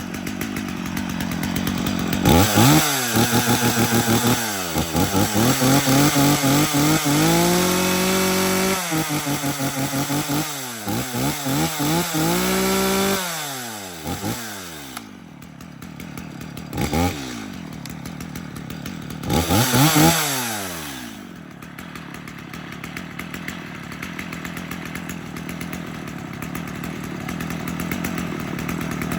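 Stihl MS250 two-stroke chainsaw revved up to full throttle and back several times, held high for a few seconds at a time, then settling to a steady idle about two-thirds of the way through. It is running warm after a cold start.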